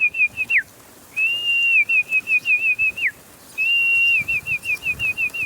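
A person whistling a repeated bird-calling phrase: a held high note, then a run of quick warbling dips, ending in a falling slide. It comes twice, plus the end of an earlier phrase at the start.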